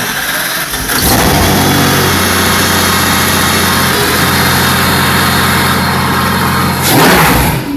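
Mercedes-AMG CLK GTR's V12 engine on a cold start: it fires abruptly, picks up about a second in, and settles into a steady idle. A brief rev near the end drops back to idle.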